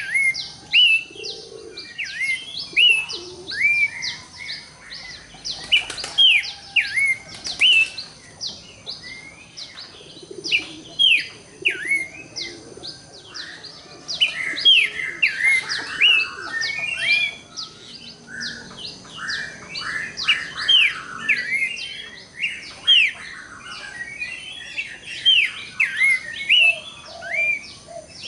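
Pelanduk semak (Horsfield's babbler) singing: a busy, continuous run of short whistled notes, each sweeping sharply downward, several a second, with a few lower hooting notes underneath now and then.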